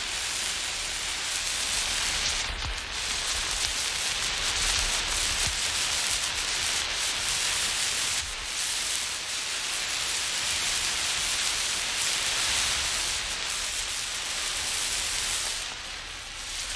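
Burning emergency road flare hissing as it is moved about, the hiss swelling and dipping in level with a low rumble underneath.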